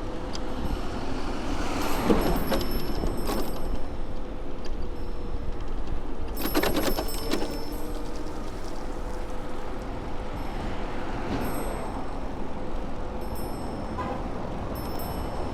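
City street traffic and wind heard from a moving bicycle: a steady low rumble with a faint engine hum, and two short rattling clatters, one about two seconds in and another, longer, around the middle.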